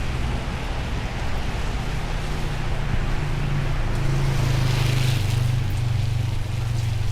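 A vehicle engine running nearby with a steady low hum, over the wash of rain on wet pavement, with a brief hiss swelling about five seconds in.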